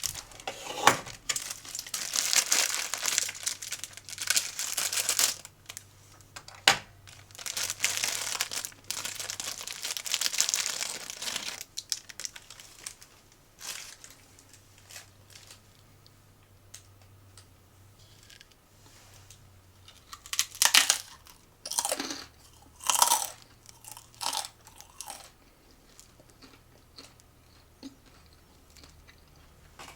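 Plastic snack packaging crinkling and tearing open, dense and continuous for about twelve seconds, then quieter with scattered small clicks and a few short, sharp crunches a little past the twenty-second mark.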